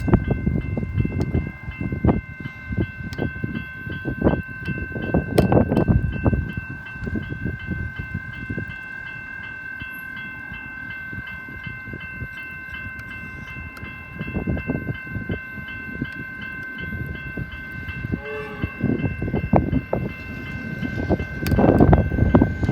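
Freight train rolling past, its wagons clattering and knocking irregularly over the rails. A steady high-pitched ringing tone runs underneath.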